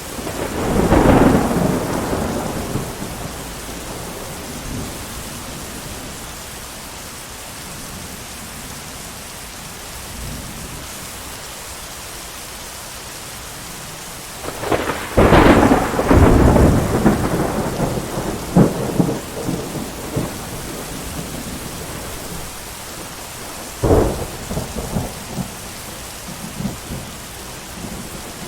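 Steady heavy rain with thunder: a rumbling peal about a second in, a sudden crack followed by a long rolling rumble about halfway through, and another sharp clap near the end.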